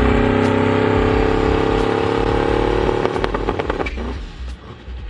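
A car engine running under steady throttle, its pitch creeping slowly up for about three seconds. It then lifts off with a quick run of sharp exhaust pops and crackles, and the engine sound drops away.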